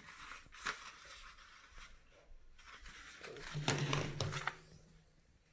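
A sheet of paper being handled and rustled, with a few short crinkles and a longer, louder rustle about three and a half seconds in.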